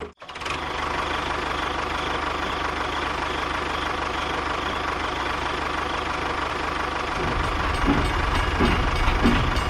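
A motor running steadily with a faint hum; about seven seconds in, a louder, lower rumble with irregular knocks joins in.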